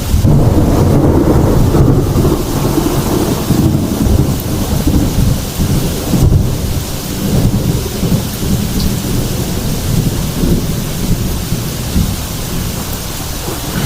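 Heavy thunderstorm: a long low roll of thunder, loudest in the first couple of seconds and slowly easing, over steady heavy rain.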